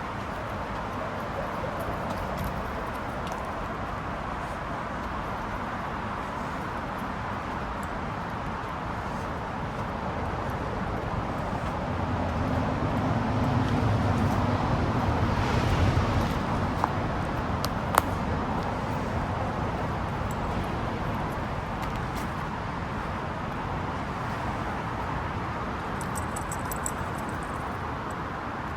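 Steady rushing background noise with a motor vehicle passing in the middle, swelling louder and deeper and then fading. There is a single sharp click about two-thirds of the way through.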